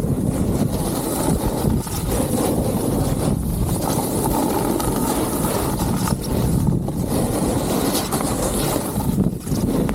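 Wind buffeting the action camera's microphone while riding down a snowy ski slope: a loud, steady rumbling rush that dips briefly a few times.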